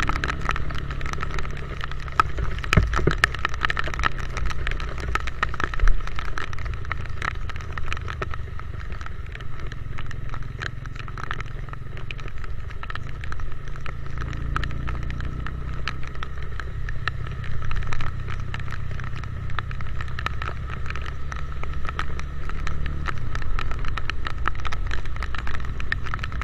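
Motorcycle engine running at a steady ride, a low drone that drops a little near the end, with dense crackling clicks over it from rain hitting the camera.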